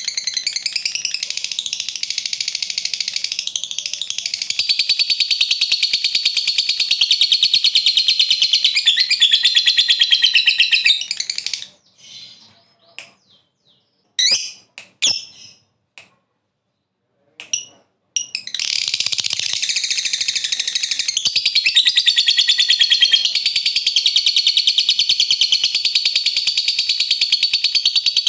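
Lovebird singing its long, rapid, shrill chattering trill (the 'ngekek panjang' song). About twelve seconds in it breaks off for a few seconds of short separate chirps with silence between them, then the continuous chatter starts up again.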